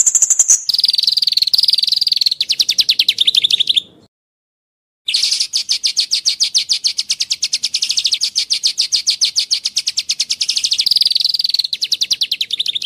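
Songbird trilling: long runs of sharp, rapidly repeated notes, about ten a second, that break off abruptly about four seconds in and start again a second later. This is a recording of song used as training material for caged songbirds.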